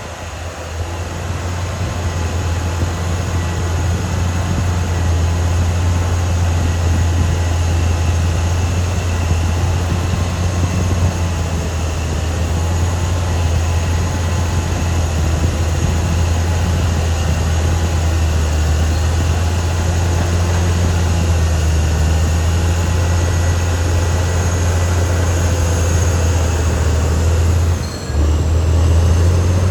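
Caterpillar D6R XL crawler bulldozer at work: its diesel engine runs under load with a steady deep drone, and wavering high whines from the machine sound over it. The sound dips briefly about two seconds before the end, then resumes.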